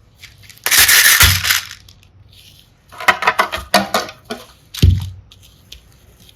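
Mini hearts and seashells rattling and clattering as they are dug through and poured, with a dense burst about a second in, then a run of sharp clicks and clinks, and a single thump near five seconds.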